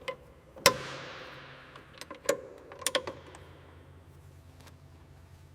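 A few sharp clicks and knocks at irregular intervals. The loudest, about two-thirds of a second in, is followed by a hiss that fades over a couple of seconds.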